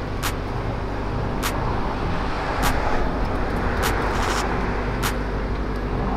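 A car engine running steadily at idle, with a sharp click about every second and a quarter.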